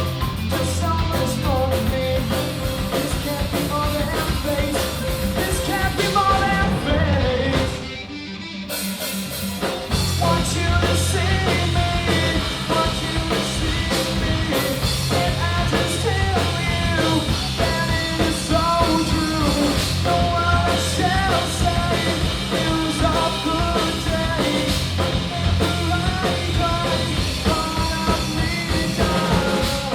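Live four-piece rock band playing: drum kit, bass guitar, electric guitar and keyboards, with a sung vocal line. The band drops away briefly about eight seconds in, then comes back in at full volume.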